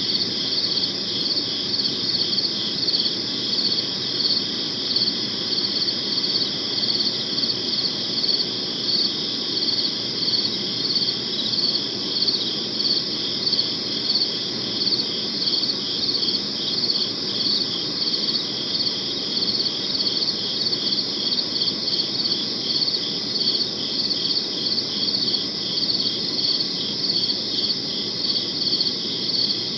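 Crickets chirping in a continuous chorus, high, rapid and evenly pulsed, over a faint low background hiss.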